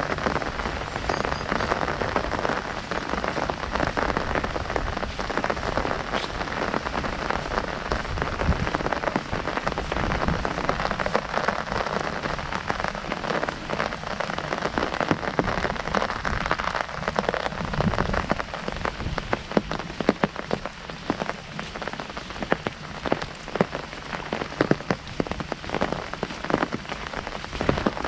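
Heavy rain falling on an umbrella overhead: a dense, steady hiss of drops, with separate drop hits standing out more clearly in the second half.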